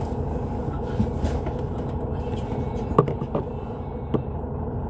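Hyundai Universe Space Luxury coach under way, a steady low drone of engine and road noise heard inside the cabin, with a few sharp rattles or knocks about three seconds in and again near four seconds.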